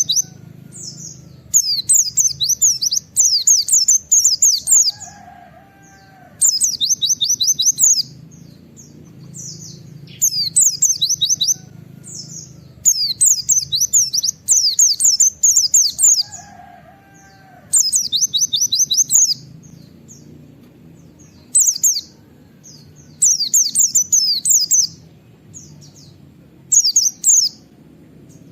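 A white-eye (pleci) singing in fast chattering bursts of high 'wit wit' notes, each burst a second or two long, repeated every few seconds, over a faint low hum.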